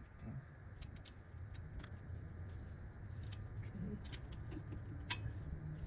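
A few scattered, irregular light metallic clicks from hand tools working a stubborn engine bolt loose, over a low steady hum.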